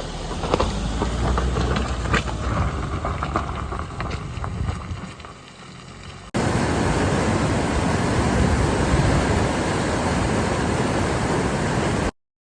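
A vehicle running with low rumble and scattered knocks, then, after an abrupt cut about six seconds in, a steady rushing noise that stops suddenly near the end.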